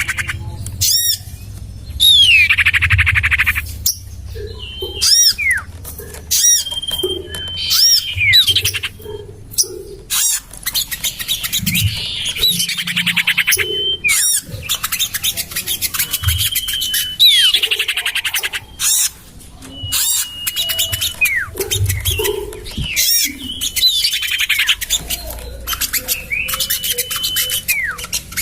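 Bird-lure recording of sirtu (common iora) calls: repeated sharp chirps and short held whistles, broken every several seconds by a rapid downward trill lasting about two seconds.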